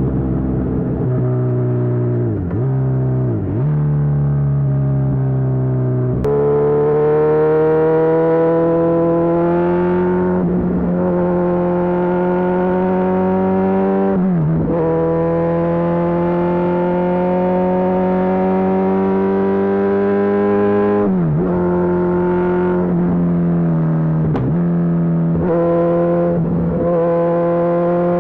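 Kawasaki Z1000SX inline-four running through a Lextek aftermarket full exhaust while riding, the engine note climbing slowly under throttle. Several times it dips briefly and picks up again, as at gear changes, and it jumps up sharply about six seconds in.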